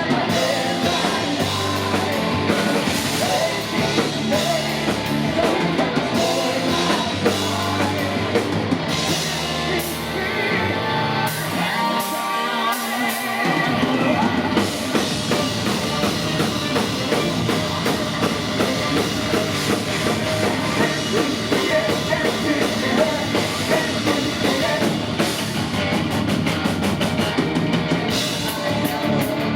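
Metal band playing live: distorted electric guitars, a drum kit and sung vocals. About twelve seconds in the low end drops away briefly before the full band comes back in.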